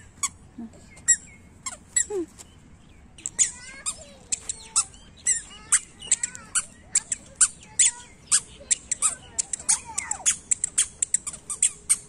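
Birds chirping and calling outdoors: short, sharp chirps, scattered at first, then several a second from about three seconds in.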